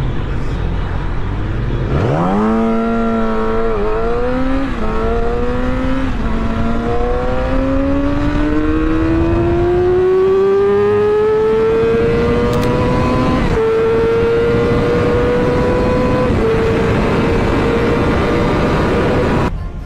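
Motorcycle engine launching hard about two seconds in and accelerating up through the gears. The pitch climbs and dips at each of several upshifts, each gear held longer than the last, until the sound cuts off suddenly near the end.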